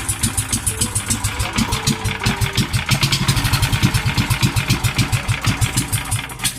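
Yanmar 18 hp engine with its governor gear removed, running just after being pull-started, with rapid, even firing beats that stop abruptly near the end.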